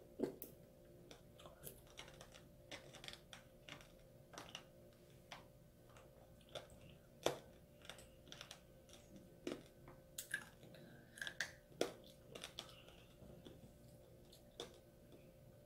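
Faint, irregular crunches and small clicks as a child chews tanghulu, the fruit's hard sugar coating cracking between the teeth, while wooden skewers click against the plate.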